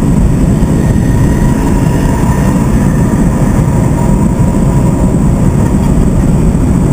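BMW M3 E92's V8 engine at speed, heard from inside the cabin as a loud, steady low drone mixed with tyre and wind noise.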